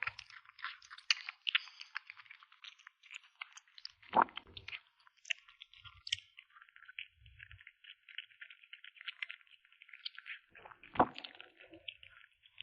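Kitten chewing meat: quick, wet, crunchy crackles of chewing, with a louder knock about four seconds in and a stronger one near the end.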